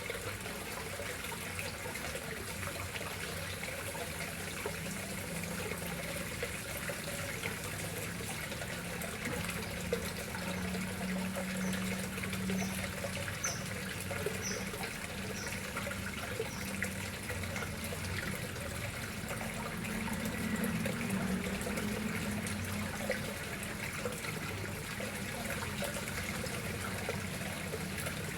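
Water running and splashing steadily into a koi pond. A few short, faint high chirps come about halfway through.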